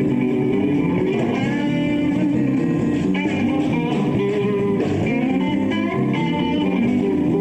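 Live band playing a blues-rock instrumental passage, with electric guitar to the fore over bass.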